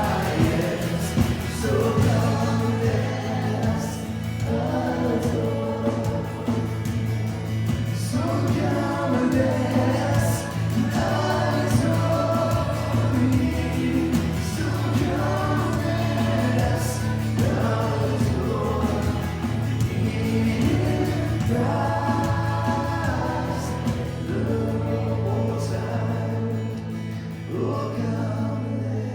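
Christian worship music: a group of voices singing together in phrases of a couple of seconds each, over a sustained low accompaniment.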